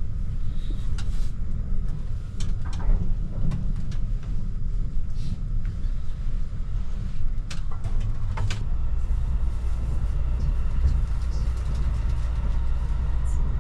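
Kintetsu Hinotori (80000 series) electric limited express train running, heard inside the passenger car as a steady low rumble with scattered light clicks and rattles.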